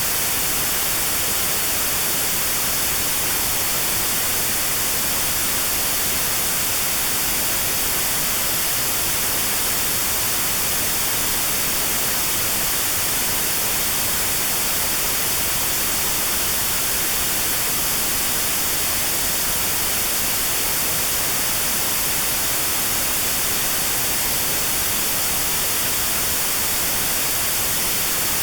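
Steady white noise with a narrow band around 4 kHz cut out: notched sound therapy for tinnitus at that pitch. Unchanging hiss, strongest in the high frequencies.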